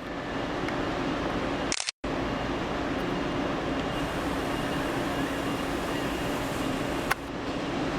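Steady rumble and hum of railway trackside ambience, broken by a sudden brief dropout just before two seconds in where one clip cuts to the next, and a sharp click about seven seconds in.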